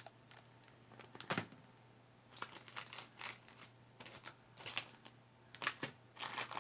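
Faint, scattered crinkling rustles and light clicks of small jewelry items being handled, with a sharper click about a second and a half in and a quick cluster of rustles near the end.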